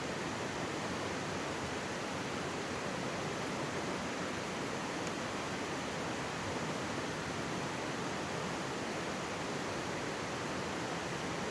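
Mountain stream babbling steadily, a continuous rush of water with no change in level.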